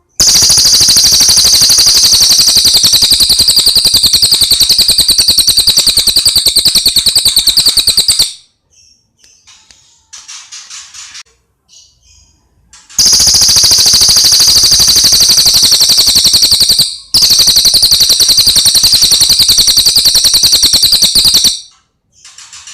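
Recorded cililin birdsong used as a training track: long, very fast high-pitched trills, three of them of several seconds each. Softer, scattered notes fill the pauses between the trills.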